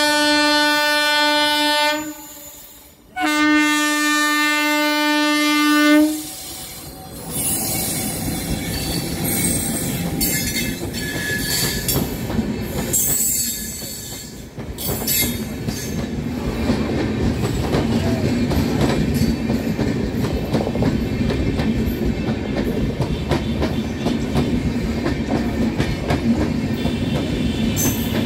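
Indian Railways WAP-7 electric locomotive sounds two long horn blasts on one steady tone. Then the express's passenger coaches rush past at speed: a steady rumble with the clickety-clack of wheels over rail joints, and a thin wheel squeal for a few seconds after the horn.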